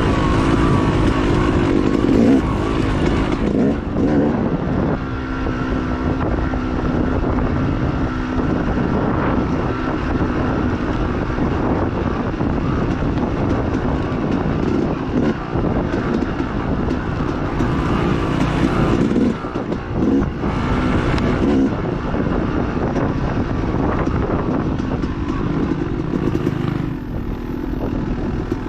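Dirt bike engine running hard through a woods race, its pitch rising and falling again and again as the throttle is worked.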